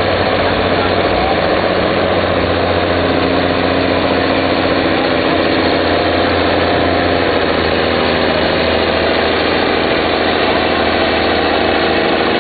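Mack R-model semi truck's diesel engine idling steadily, a deep even rumble with no revving.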